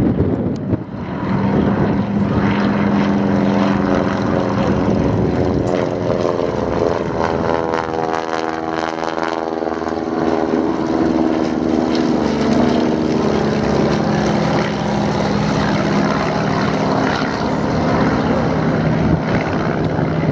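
Propeller engines of First World War replica fighter aircraft droning steadily in an aerobatic display. One plane passes low overhead about eight to ten seconds in, with a swishing, phasing sweep in the engine note.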